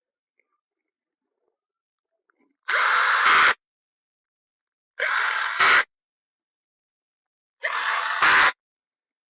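Handheld power drill/driver running in three short bursts of just under a second each, each ending in a brief louder, harsher moment.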